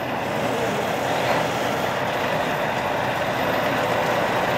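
Heavily loaded truck's engine running steadily as the truck creeps forward.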